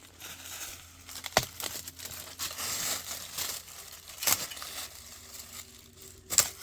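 Rustling and crinkling handling noise, broken by three sharp snaps or knocks, the loudest near the end.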